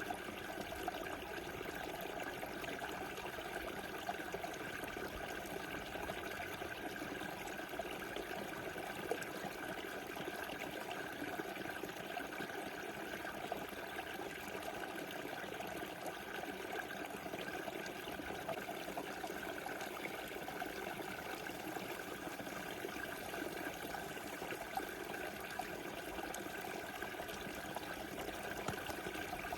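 Small river flowing and babbling over stones, a steady rushing with light trickling.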